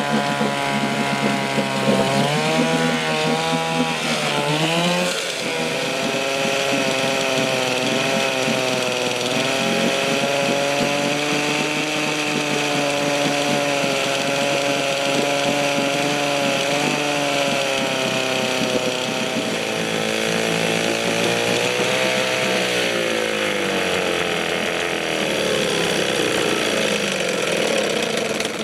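1972 Johnson 6 HP Seahorse two-stroke twin outboard running on its first start in 20 years. Its revs rise and fall several times in the first five seconds, then hold steady, and ease down about twenty-two seconds in.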